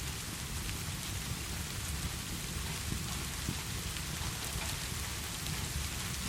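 Steady heavy rain with a low, constant rumble underneath and faint scattered drop ticks.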